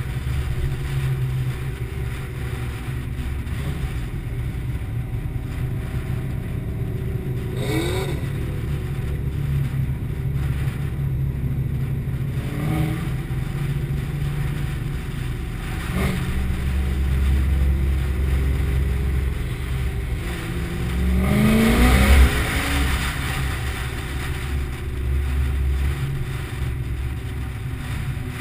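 Car engine and exhaust rumbling low while cruising in traffic, with a few brief revs that rise in pitch; the last and loudest comes with a rush of exhaust noise.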